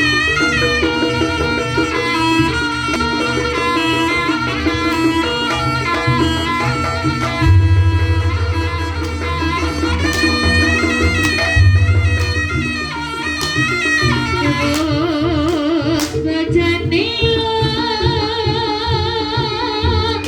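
Javanese jaranan ensemble music: a sustained, reedy melody line over continuous drumming, with the drum beat heaviest in the middle stretch and the melody wavering near the end.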